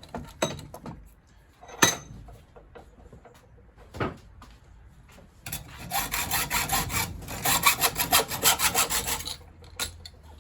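A few sharp metal knocks from handling, then a few seconds of fast, even saw strokes cutting through folded-over copper tubing to free a brass boiler fitting.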